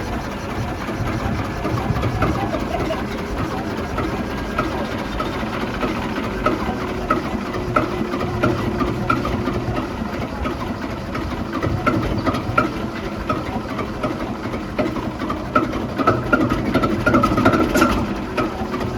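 Duvant 9VOS diesel engine running steadily at idle after start-up, with a continuous clatter of short knocks.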